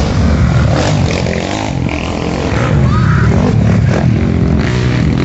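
Off-road dirt bike engines running steadily, with a few voices of onlookers mixed in.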